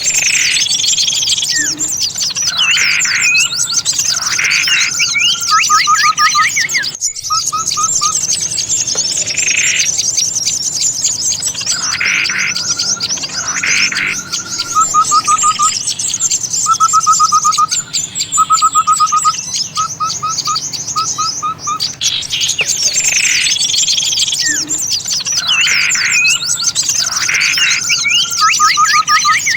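Bird-lure recording of many small birds calling at once in an agitated chorus: a dense high twittering throughout, over which repeated short fast trills and louder chirping calls stand out. There is a brief break about seven seconds in, and the same passage comes round again about twenty seconds later, as in a looped track.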